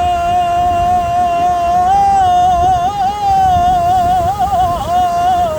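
A man singing 'ataba, a Levantine folk song, unaccompanied, holding one long high note. The note wavers into ornamented turns near the end.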